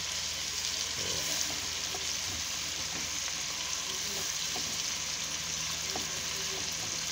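Chicken, garlic, onion and freshly added carrot slices frying in oil in a steel pot: a steady sizzle.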